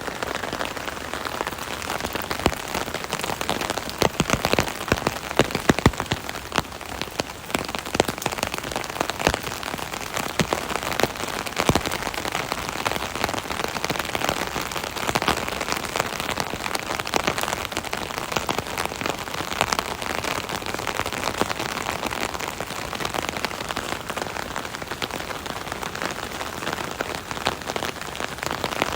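Steady rain falling on an umbrella, a dense patter of many small drop impacts on the canopy fabric with no letup.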